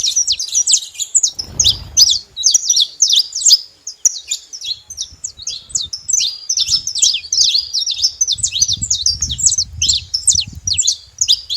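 Saffron finch singing: a rapid, unbroken series of short, high chirps.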